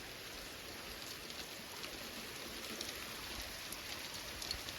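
Rain mixed with small hail falling: a steady hiss of rain with faint, scattered ticks of drops and hailstones striking nearby surfaces.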